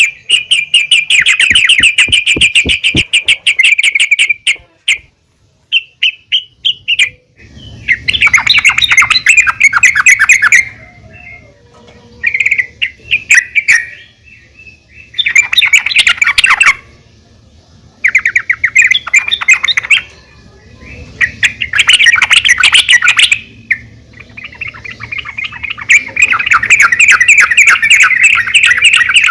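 Yellow-vented bulbul (trucukan) calling, the female's call used to draw out a male: repeated bursts of rapid chattering notes, each one to a few seconds long with short pauses between them, the longest near the end.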